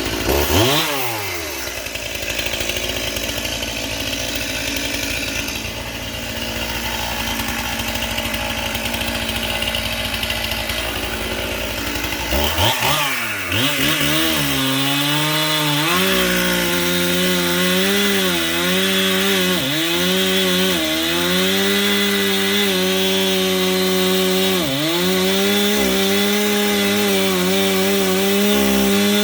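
Stihl Farm Boss chainsaw with an 18-inch bar and chain. It revs briefly and falls back to idle right at the start, idles for about twelve seconds, then revs up to full throttle and runs steadily through wood, its pitch dipping briefly now and then under load.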